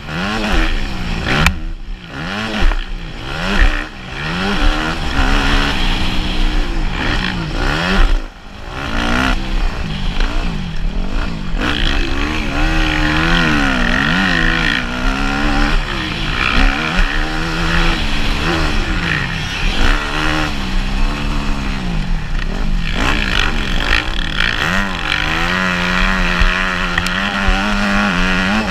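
Motocross bike engine revving hard, its pitch climbing and falling again and again as the throttle is opened and chopped. It drops off sharply a few times in the first eight seconds, then holds high and steady with small wavers.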